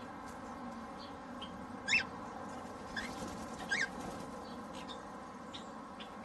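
Cockatiel giving short, sharp calls: a loud one about two seconds in, then two more about a second and two seconds later, over a steady background.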